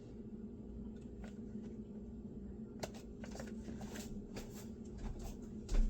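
Light clicks and scrapes of food handling in a kitchen, starting about three seconds in and coming roughly two or three times a second, over a low steady hum, with a soft thump near the end.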